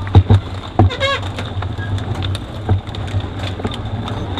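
Mountain bike rolling off at a race start, with many rattling clicks and knocks over a steady low hum. A short wavering cry sounds about a second in.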